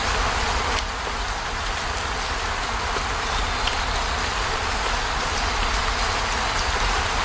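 Heavy rain falling steadily, a dense even hiss, with a low rumble underneath.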